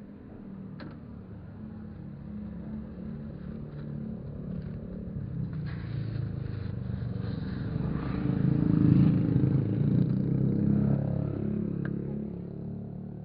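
Motor vehicle engine noise on the road, growing louder to its loudest about nine seconds in and then fading away.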